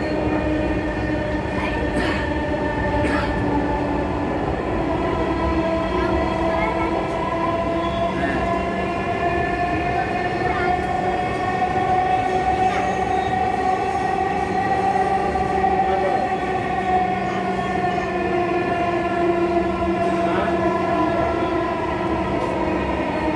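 Dhaka Metro Rail electric train running, heard from inside the car: a steady rumble of wheels on track with a multi-tone motor whine that rises gently in pitch over the first half and eases back down later. A couple of faint clicks come a few seconds in.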